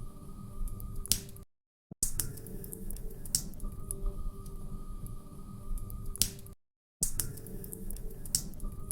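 Wood fire crackling, with irregular sharp pops over a low steady rumble. The sound cuts out to silence twice, for about half a second each time, near the start and about six and a half seconds in.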